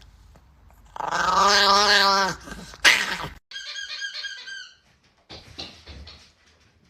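A dog giving one long, wavering, whiny vocalisation of about a second and a half, followed by a sharp click and some briefer, fainter scattered sounds.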